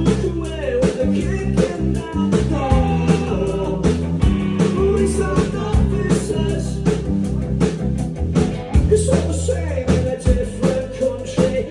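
Live rock band playing: electric guitar, bass and drum kit keeping a steady beat, with a singer's voice over the top.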